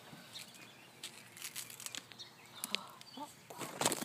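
Puppies scuffling and digging in dirt: scattered short scratching and rustling sounds, with a couple of brief faint chirps about three seconds in and a louder rustle near the end.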